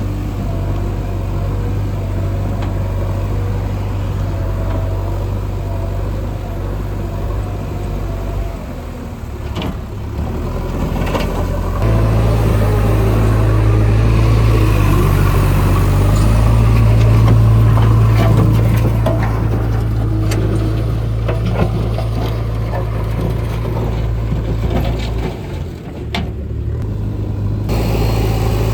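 Heavy diesel engines of road-construction machinery running under load, steady and low. The engine note rises and gets louder about a third of the way in, with a few metallic knocks, then eases off near the end.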